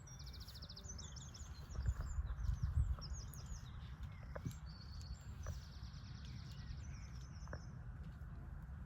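Small birds chirping in quick series of high, rapidly repeated notes, over a steady low rumble.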